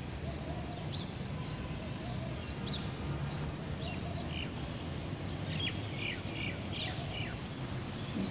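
Small birds chirping: short high notes scattered throughout, with a quick run of them a little after halfway, over a steady low rumble.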